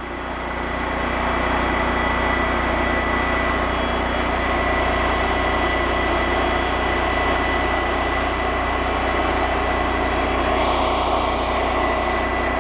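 TimberKing 2000 bandsaw sawmill running steadily under power, with a thin, steady high whine over the engine.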